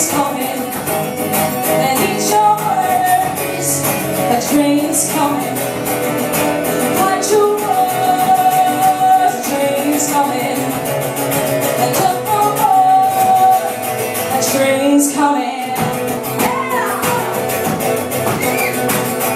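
Live singer-songwriter performance: a guitar strummed hard in a steady rhythm under a woman's sustained singing voice.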